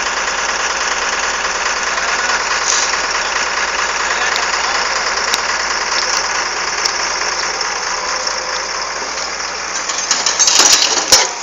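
Engine of heavy equipment running steadily under a dense rattle, swelling louder for about a second near the end.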